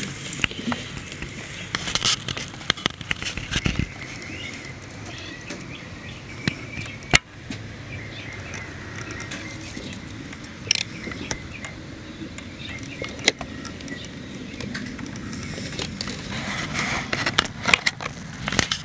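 Camera handling noise: scattered clicks and rubbing, with one sharp click about seven seconds in, over a faint outdoor background.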